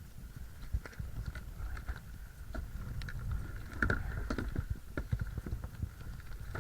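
Irregular clicks, knocks and rustles of kayak gear being handled during setup, with the loudest cluster of knocks about four seconds in.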